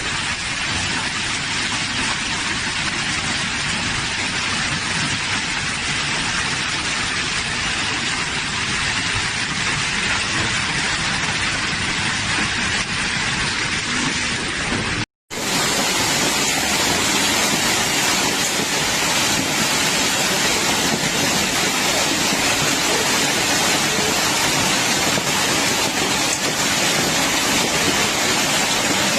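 Heavy rain falling, a steady hiss. The sound cuts out for a moment about halfway through, then comes back a little louder and brighter.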